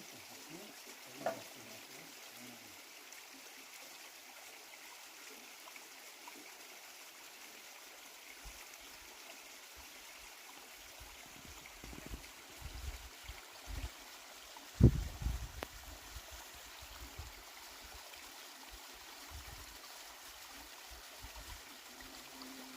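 Running water of a mountain stream, a steady rushing hiss. A few low thumps come in the second half, the loudest a sharp knock about fifteen seconds in.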